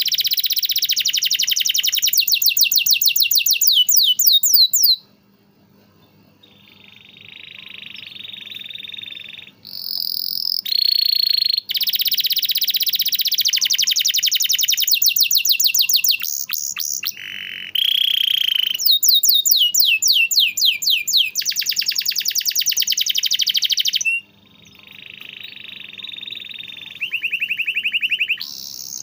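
Domestic canary singing: long rolling trills and fast runs of falling notes, each note repeated many times, broken by two brief quieter spells.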